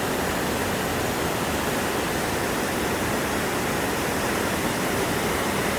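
Mountain stream swollen by typhoon rain, its water rushing in a steady, unbroken roar.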